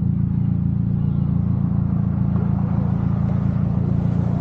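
A car engine running steadily: an even low drone that holds without change.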